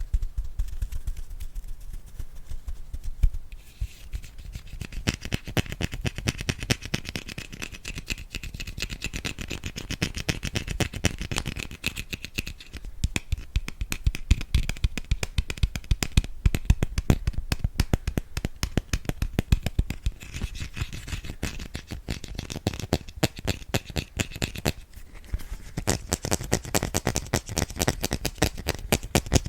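Bristles of an ASMR brush swept quickly, a dense run of scratchy strokes many times a second.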